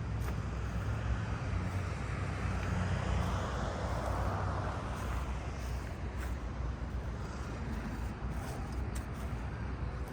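City street traffic: a steady low rumble of engines, with one vehicle passing close, its tyre and engine noise swelling to a peak about four seconds in and then fading.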